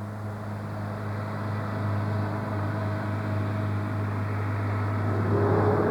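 Classic car's engine labouring at steady revs, a low drone that slowly grows louder. Near the end a higher engine note joins and the sound gets louder still.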